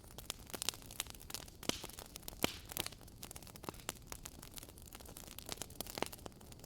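Wood fire crackling: irregular sharp pops and snaps over a soft steady hiss, with louder pops about two and a half seconds in and again near six seconds.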